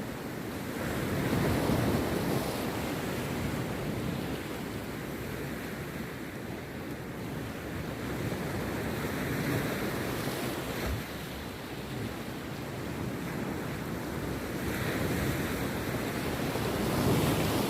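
Rough sea waves breaking and washing on the beach, the surf swelling several times, with wind buffeting the microphone.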